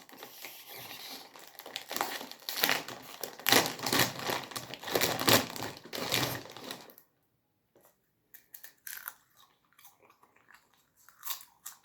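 Packaging being crumpled and crinkled by hand, a dense crackling for about seven seconds, then only a few scattered small rustles and clicks.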